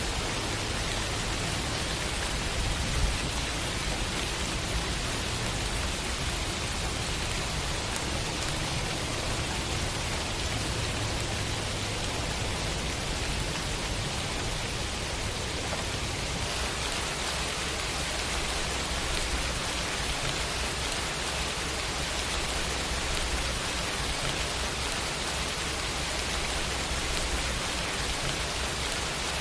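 Steady rain, an even hiss with a low rumble underneath, and one brief louder drop or tap about three seconds in.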